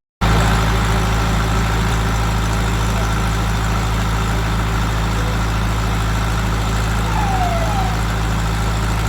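A loud, steady engine drone with a low hum over a broad rushing noise, starting abruptly just after the start and not changing.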